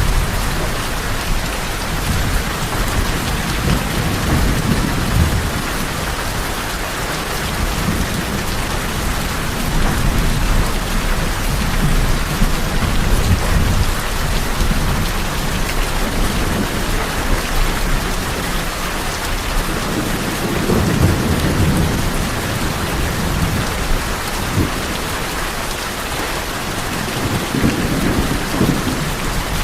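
Steady heavy rain falling on a tin roof, with low thunder rumbling in several slow swells.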